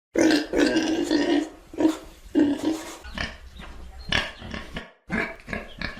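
Pigs grunting and oinking in a run of short, rough calls, loudest in the first second and a half. The calls stop briefly about five seconds in, then start again.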